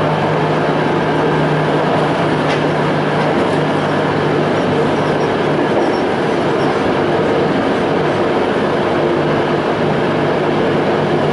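Toei 5300 series electric train running, with steady wheel and rail noise, a steady low hum and fainter, slightly shifting higher tones from its Hitachi-built Mitsubishi GTO-VVVF traction equipment.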